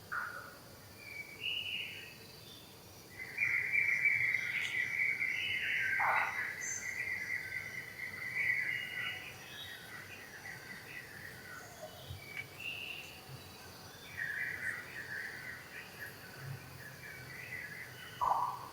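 Outdoor animal calls over a faint, steady insect hum. A long high-pitched call begins about three seconds in and lasts several seconds, another comes a little past the middle, and short chirps fall between them.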